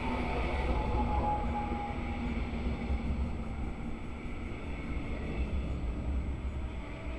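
Red double-deck regional train coaches rolling past close by: a steady low rumble of wheels on the rails.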